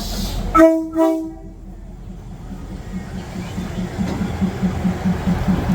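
Diesel train sounding two short horn blasts about a second in, then rolling slowly past with a low rumble that pulses about five times a second and grows louder towards the end.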